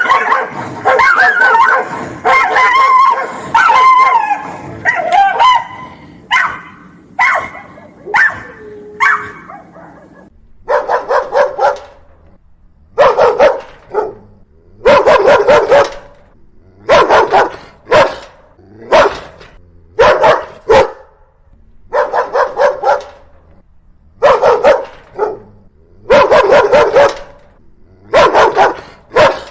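Angry dogs barking. For the first ten seconds or so the barking is dense and overlapping. After that it comes in short bursts of a few barks each, about every two seconds, with quiet gaps between.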